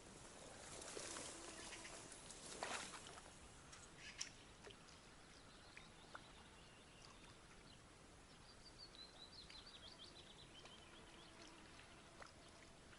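Faint outdoor quiet with a bird singing a short descending run of high chirps about two-thirds of the way through. Two brief swells of noise come near the start.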